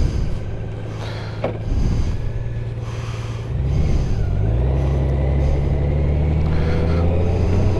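Motorcycle engine that settles into a steady low idle about halfway through, a little louder from then on, with a single sharp click earlier on.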